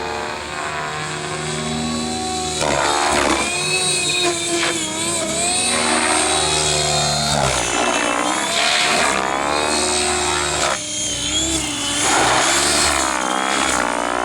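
Gaui X7 electric RC helicopter with a Scorpion 4525-520kv brushless motor running: the motor and rotor whine wavers and glides up and down in pitch, with several stretches of rushing noise.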